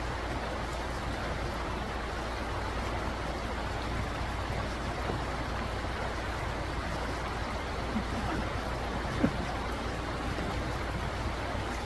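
Steady rushing of a shallow mountain stream, with two brief faint ticks near the end.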